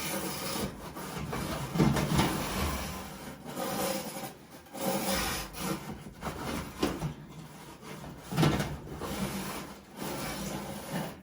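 Vacuum cleaner running with a flexible lint-cleaner attachment scraping and rubbing irregularly inside the dryer's lint trap opening, sucking up lint. The vacuum cuts off suddenly at the end.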